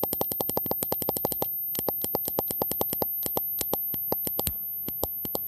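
A low-battery talking G.I. Joe figure's voice chip stuttering through its chest speaker: a rapid train of clicks, about eight a second at first, then slower and uneven after a short break. The weak batteries leave it unable to play its phrases.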